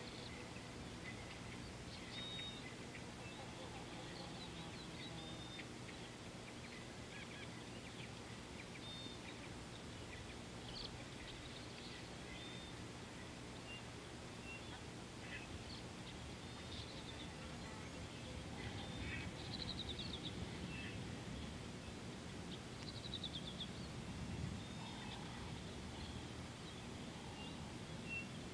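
Scattered short bird chirps and calls, many and irregular, over a steady background hiss and low hum.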